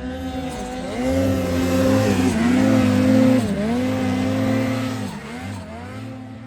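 Turbocharged mountain snowmobile with a 165-inch track, climbing under hard throttle. The engine's pitch dips and recovers a few times, and it is loudest a couple of seconds in before fading near the end.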